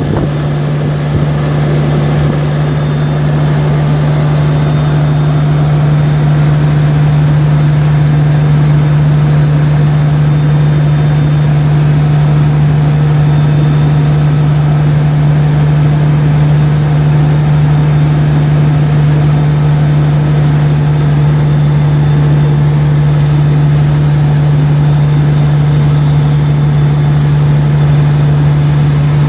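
Steady drone of a vehicle driving on a highway, engine and tyre noise inside the cabin, with a strong constant low hum that does not change.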